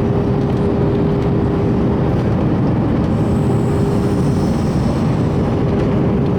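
Steady cabin noise inside an Airbus A321: an even low rumble of engines and airflow with a steady hum running through it.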